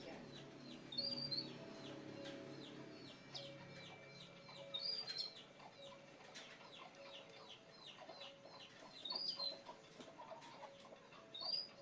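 Animal calls: short high chirps recurring about every four seconds over a steady run of softer, rapid calls.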